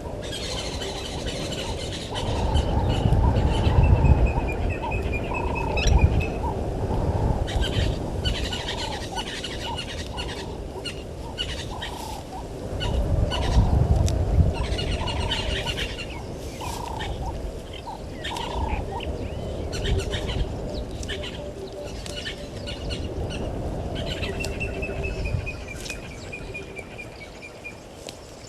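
Several wild birds calling and chirping, with short repeated calls throughout. Twice, near the start and again near the end, a rapid run of high notes falls in pitch over a few seconds. Low rumbling swells rise and fall underneath, strongest around three to four seconds in and again around thirteen seconds in.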